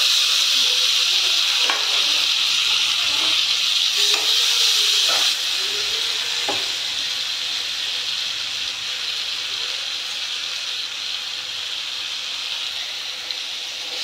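Chopped tomatoes frying in hot oil with sliced onions in an aluminium kadai: a loud, steady sizzle that starts suddenly as they go in and eases a little after about five seconds. A few light clicks and scrapes of the steel spatula against the pan.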